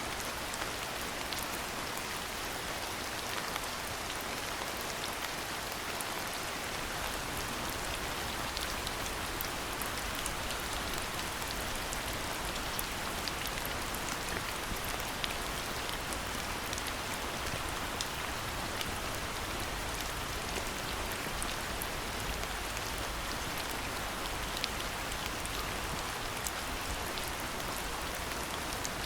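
Steady rain falling: an even hiss with many fine drop ticks scattered through it.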